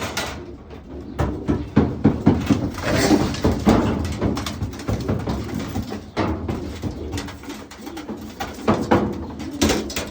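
Racing pigeons cooing and moving about, with wing flaps and scuffles, in a small enclosed loft.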